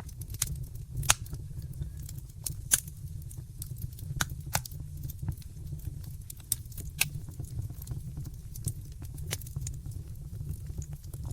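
Wood fire in a fireplace crackling: irregular sharp pops and snaps, several a second, over a steady low rumble of the flames. Two louder pops come about one and three seconds in.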